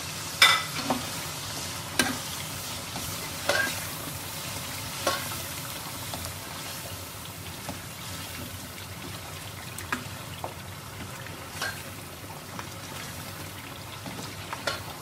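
Mutton and dry spices sizzling as they fry in an open pressure cooker, the water cooked off for the bhuna stage. A ladle stirring through the meat knocks and scrapes against the pot now and then, the sharpest knock about half a second in.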